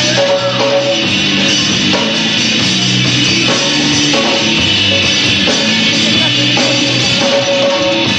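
A rock band playing live: guitar and drum kit, loud and steady without a break.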